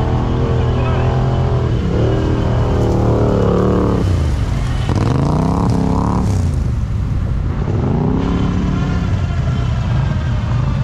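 Off-road vehicle engine running steadily, then revved up and down several times: it climbs about two seconds in, drops, climbs again around five to six seconds, and revs once more near eight seconds, the throttle work of driving through mud.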